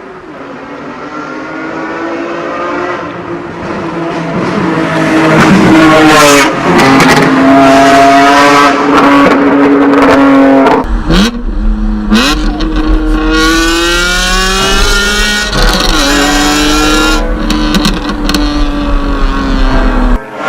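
BMW E46 M3's inline-six engine, through a loud decatted aftermarket exhaust, revving hard through the gears. The pitch climbs and drops several times at the gear changes. A steady low rumble joins about halfway through.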